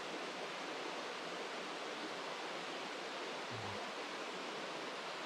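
Steady rush of a rainforest creek running over rocks.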